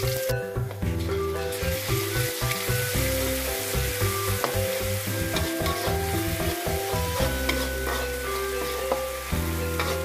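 Oil sizzling in a wok as chopped garlic and shallots fry, stirred with a metal spatula. Background music with a changing bass line plays underneath.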